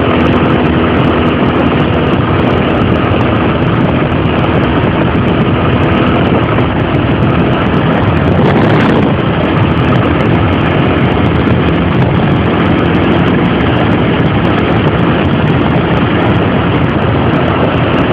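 Honda XR 250 Tornado's single-cylinder four-stroke engine running steadily under way, loud and dense, with a brief swell about nine seconds in.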